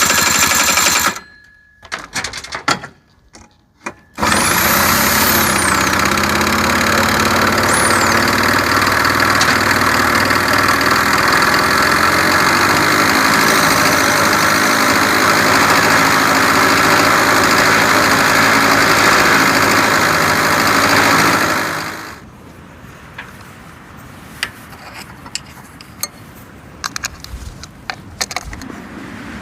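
Honda Leader AF03 scooter's 50 cc two-stroke engine running. It drops out about a second in, is running steadily again from about four seconds in, and stops some seven seconds before the end, leaving a few light clicks and clinks.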